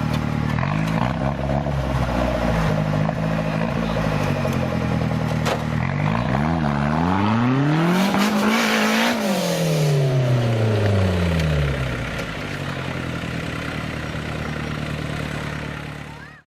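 Off-road 4x4 competition vehicle's engine running, revving up from about six seconds in and falling back by about twelve seconds. The sound cuts off suddenly just before the end.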